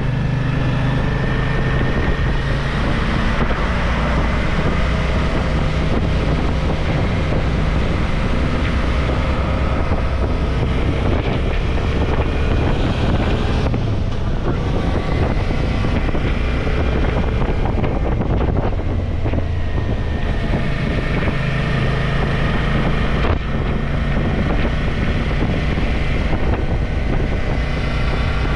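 Suzuki V-Strom motorcycle running at road speed, its engine note shifting as it rides, with wind rushing over the microphone.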